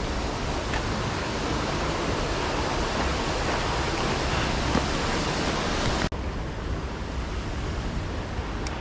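Steady rushing noise of flowing river water. It breaks off for an instant about six seconds in and carries on a little duller.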